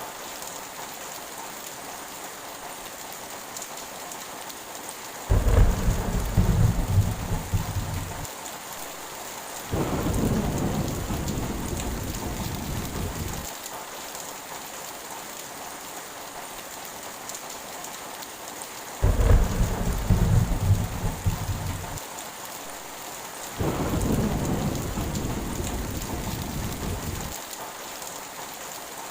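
Heavy rain falling steadily, with thunder twice: each time a sudden loud crash of a few seconds, followed by a longer rumble that slowly fades.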